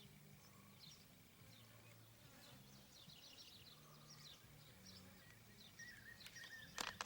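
Small birds chirping faintly in quick, short calls, with a faint low hum beneath; a sharp knock near the end.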